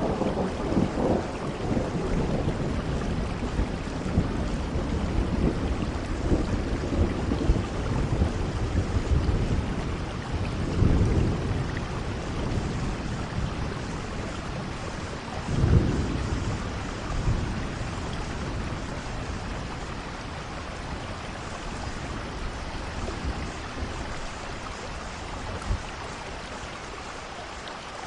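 Steady rainfall with low rumbles of thunder, the strongest about sixteen seconds in. The sound slowly grows quieter toward the end.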